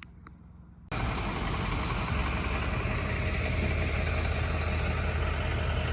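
A vehicle engine idling steadily, starting abruptly about a second in.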